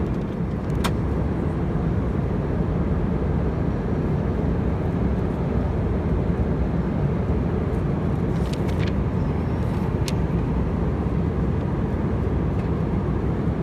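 Steady in-flight cabin noise of an Airbus A319-132: an even rumble of airflow and engines, with a few faint clicks.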